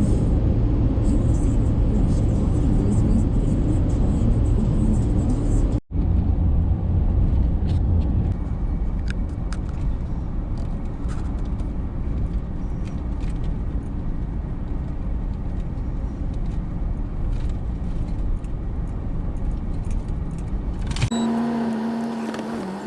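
Vehicle road noise, a truck driving with a steady low rumble. It drops out for an instant about six seconds in.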